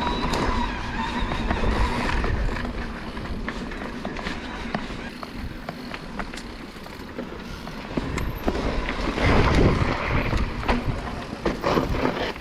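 Electric mountain bike riding over a rough, rocky trail: a steady rush of tyre and wind noise, broken by many small knocks and rattles from stones and the bike. The noise swells loudest about nine seconds in.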